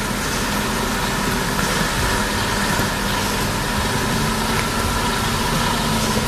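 An engine running steadily, with a constant hum and a few steady whining tones over a broad noise.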